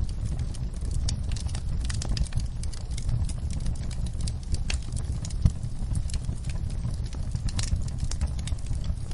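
Wood fire in a fireplace crackling, with frequent small pops and snaps over a low steady rumble of the flames; one sharper pop about halfway through.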